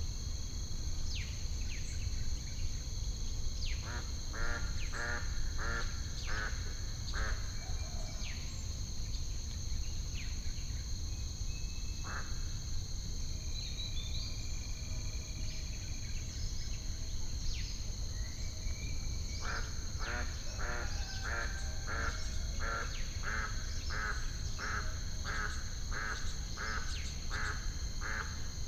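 Ducks quacking in runs of evenly spaced calls, about two a second, first briefly about four seconds in, then steadily through the latter third. Under them are a steady high insect-like whine, scattered short falling bird whistles and a low steady rumble, all from an added nature-ambience track.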